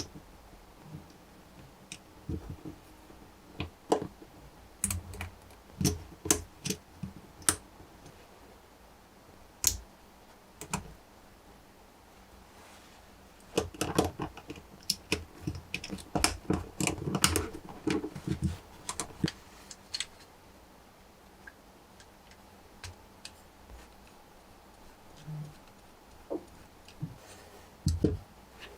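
Plastic Lego Technic parts clicking and rattling as pieces are handled and snapped together, in irregular single clicks and quick clusters.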